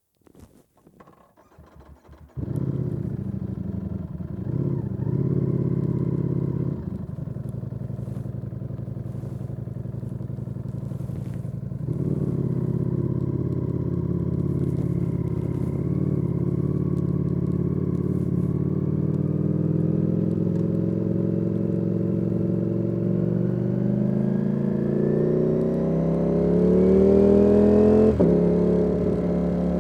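Ducati Panigale V4 S's 1103 cc V4 engine bursts into life about two seconds in and runs with a few throttle blips. Later the engine note climbs steadily as the bike accelerates, then drops sharply near the end, as at a gear change.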